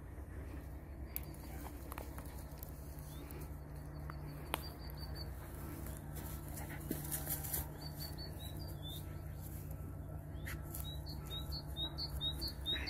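Small birds chirping in short high notes, scattered at first and then in a quick run of about four chirps a second near the end, over a steady low rumble.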